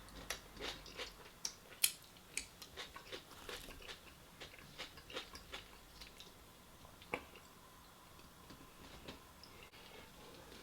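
A person chewing and biting food close to the microphone, with many short wet clicks and smacks, thickest in the first several seconds and fainter near the end.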